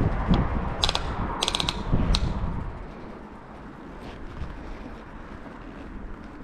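A few sharp metallic clicks and rattles over a low rumble. The rumble falls away after about two and a half seconds, leaving a quieter background.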